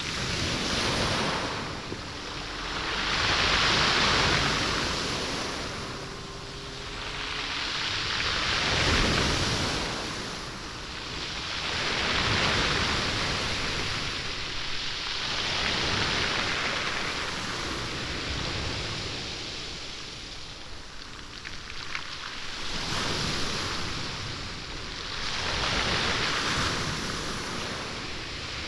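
Sea waves washing up a stony beach, the wash swelling and fading every few seconds, with beach stones rolling in the moving water.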